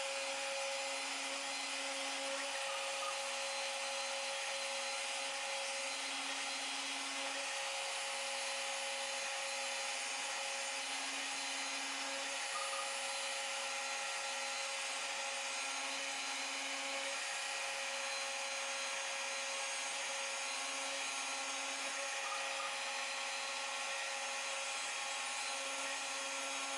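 Stepcraft M500 desktop CNC router running steadily while milling hinge mortises in a rosewood box, a constant whine over a lower hum that comes and goes every second or two as the machine moves.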